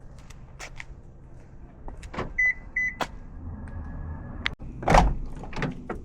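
Getting into a Daihatsu Tanto before starting it: clicks and knocks of the door and fittings, two short high beeps close together about two and a half seconds in, and a car door shutting with a thump about five seconds in.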